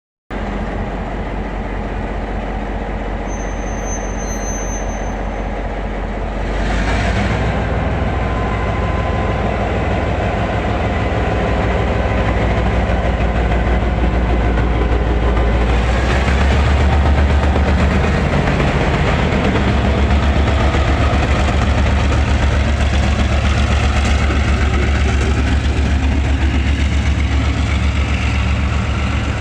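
TRA R100-class diesel-electric locomotive engine hauling a freight train away from a standstill. The engine runs steadily and throttles up about six seconds in, then louder again around sixteen seconds, as the train starts moving.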